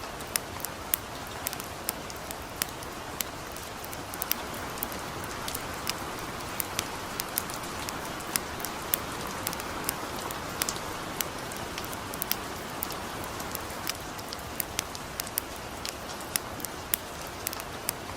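Light rain falling in a steady hiss, with a campfire's sharp, irregular crackles and pops over it, a few each second.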